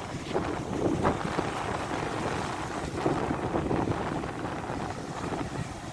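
Strong wind buffeting the microphone over the rushing surf of big waves breaking, with a couple of louder surges about a second in and around the middle.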